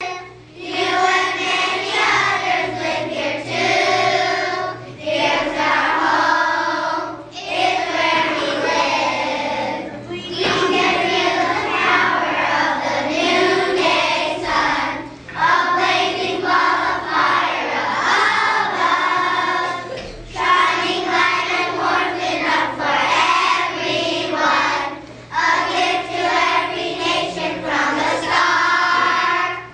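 Group of children singing together in a school play, phrase after phrase with short breaks between lines.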